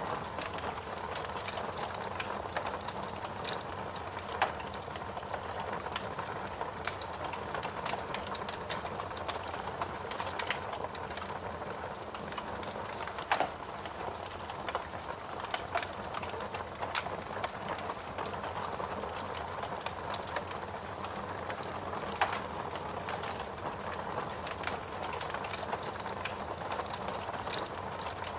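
Wood logs burning in a fireplace: steady crackling with frequent small snaps and a few louder pops, about four, thirteen and twenty-two seconds in.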